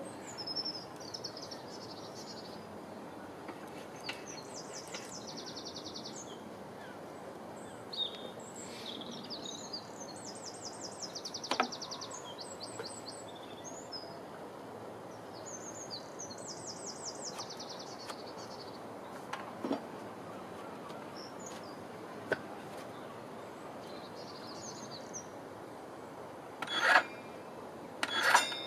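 Small birds singing in short, rapid trilled phrases, repeating every few seconds over a faint steady outdoor background. A few scattered knocks are mixed in, and two louder sharp knocks come near the end.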